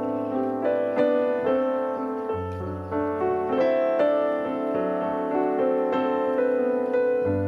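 Background piano music: notes struck about once or twice a second over a held bass note.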